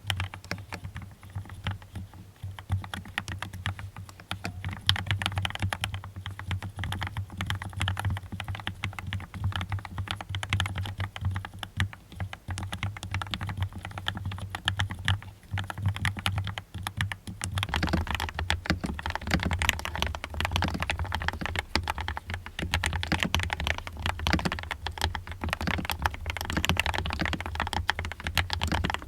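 Continuous fast typing on a mechanical keyboard: a dense run of key clicks that gets louder about two-thirds of the way through.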